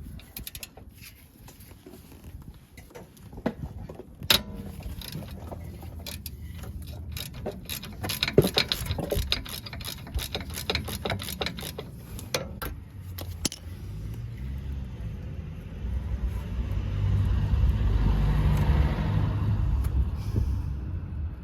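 Sharp metallic clicks and clatter of hand tools being handled and used, followed by a low engine rumble that swells and fades, like a vehicle driving past.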